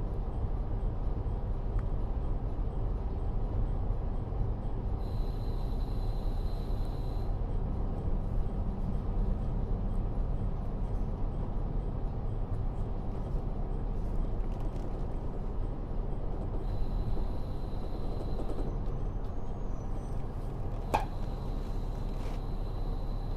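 Onboard running sound of a KiHa 40 diesel railcar with its N-DMF13HZB diesel engine: a steady low rumble of engine and wheels on the rails. A thin high tone comes and goes twice, then returns near the end with a sharp click.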